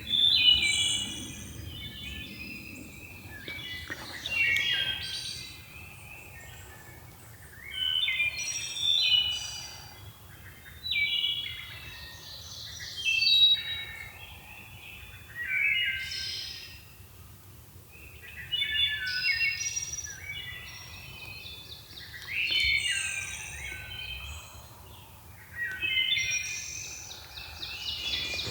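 A songbird singing short, quick warbled phrases, repeated roughly every three seconds, over faint woodland background noise.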